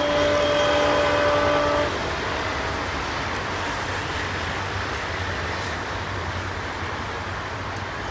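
Horn of the ALCO WDM-3A diesel locomotive, a long steady blast that cuts off about two seconds in. Under and after it, the steady rumble of the passenger train running away down the track, slowly fading.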